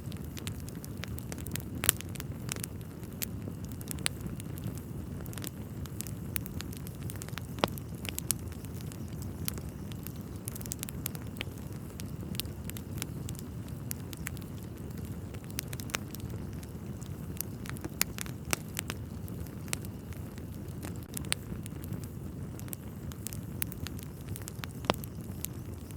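Wood fire burning in a fireplace, crackling with frequent sharp pops at irregular intervals over a steady low rumble.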